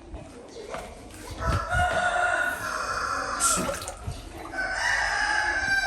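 A rooster crowing: two long calls, the first starting about a second and a half in, the second near the end.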